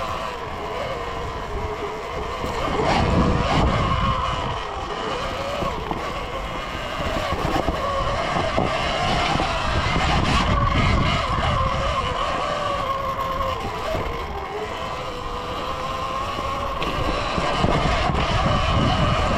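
Surron Ultra Bee electric dirt bike's motor whining as it rides a trail, the pitch rising and falling with the throttle, over a low rumble.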